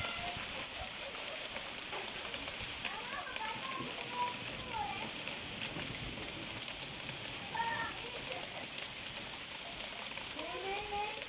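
Heavy rain mixed with small hail falling steadily on concrete paving stones, an even hiss.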